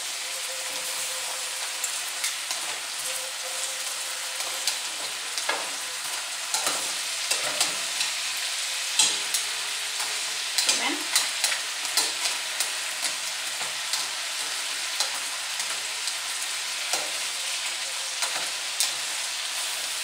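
Crab legs frying in melted butter in a wide stainless steel skillet, a steady sizzle. Metal tongs and crab shells click and scrape against the pan as the legs are stirred and turned, most often in the middle of the stretch.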